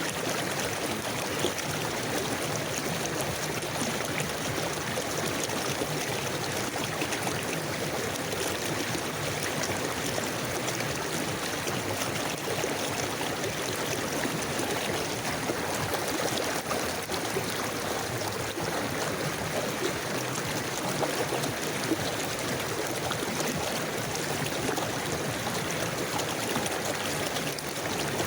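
River water flowing steadily over stones, a constant rushing with faint trickling and gurgling.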